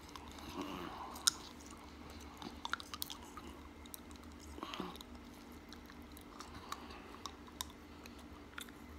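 A man chewing a mouthful of cooked chicken-of-the-woods mushroom, with scattered soft, wet mouth clicks and smacks and one sharper click about a second in. The mushroom is a little chewy.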